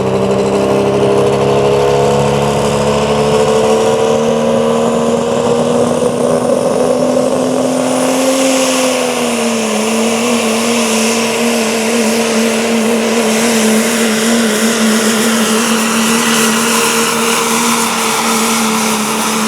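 A 1986 Ford pickup's engine held at high revs while the truck pulls a weighted sled down the track. The pitch creeps up, drops a step about nine seconds in, then holds steady.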